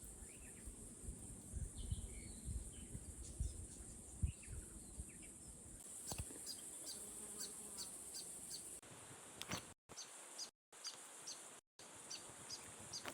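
Faint, high, short chirps of a small bird, repeated about two to three times a second through the second half, over a steady high insect-like hiss that stops about nine seconds in. Low wind rumble on the microphone in the first half.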